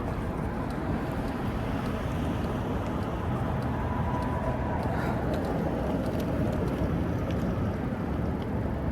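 Steady noise of passing street traffic, with no single event standing out.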